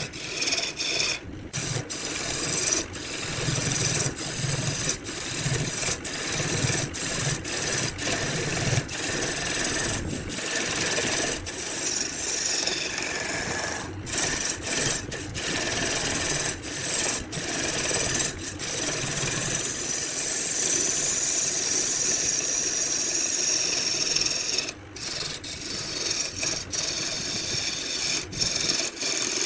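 Wood spinning on a lathe being worked with a turning tool or abrasive: a steady, coarse rasping, broken by many short, abrupt gaps.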